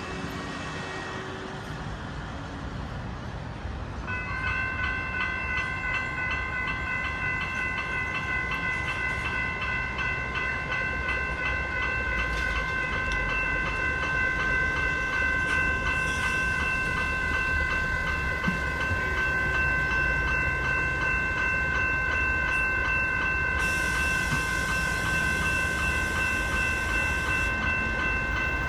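A level crossing's General Signals electronic bell starts ringing about four seconds in and keeps up a rapid, steady ring as the crossing activates. A train runs through the crossing with rumbling and wheel clatter under the bell.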